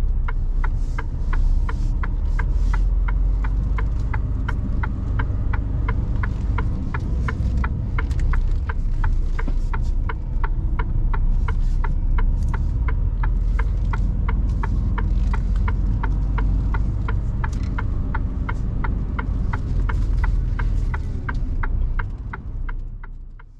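Cab of a Mercedes Actros truck: the engine runs with a steady low rumble while the indicator ticks evenly, about twice a second. The sound fades out near the end.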